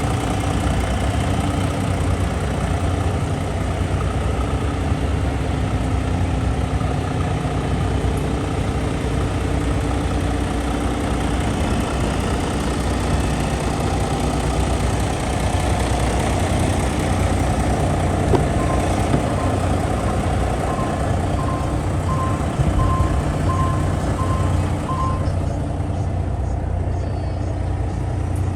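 Heavy truck's diesel engine idling steadily. A reversing alarm beeps in a quick string of about ten short beeps, a little over halfway through.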